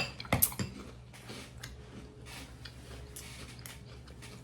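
A spoon clinking against a cereal bowl, with three sharp clicks in the first second, then faint scraping and rustling as the cereal is stirred and scooped.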